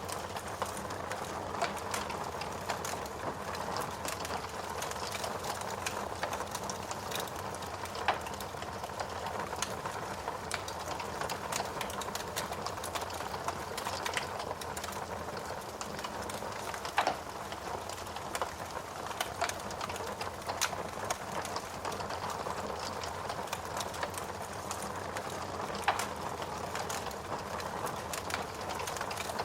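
Fireplace fire crackling steadily, with a constant patter of small snaps and three louder sharp pops spaced about nine seconds apart.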